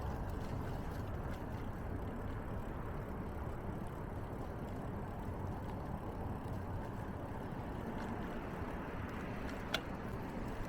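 Steady low rumble of a bicycle in motion, tyres running on the path with wind noise on the microphone, broken by one short sharp click near the end.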